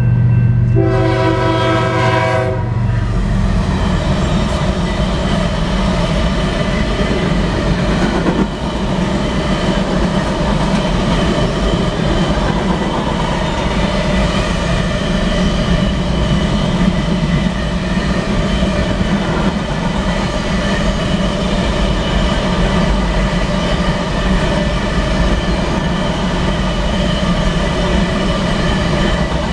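A GE ES44DC diesel locomotive's horn sounds at the crossing and cuts off about three seconds in. The locomotive and then a long string of covered hopper cars roll past with a loud, steady rumble of wheels on rail and clickety-clack over the joints.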